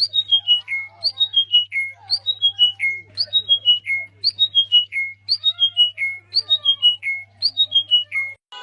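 A songbird whistling the same short phrase over and over: about five clear notes stepping down in pitch, repeated about once a second, with fainter calls from other birds beneath and a steady low electrical hum. The song cuts off just before the end.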